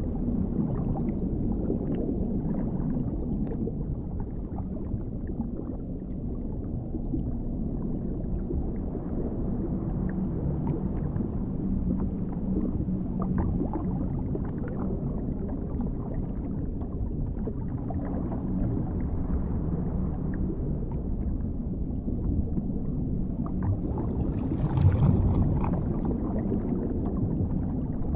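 Dark underwater ambience: a steady deep rumble of muffled water with a faint low drone, swelling louder briefly about 25 seconds in.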